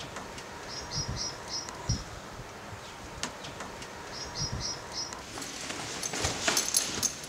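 A small bird chirping in two short runs of four or five quick, high notes. From about five seconds in, rustling and sharp clicks as a backpack is picked up.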